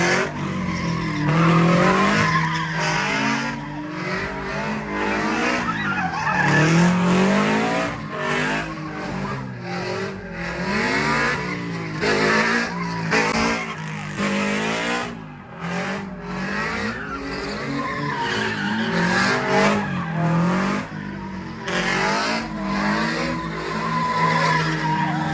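A car engine revving up and down over and over, its pitch repeatedly rising and falling, with tires squealing and skidding on pavement.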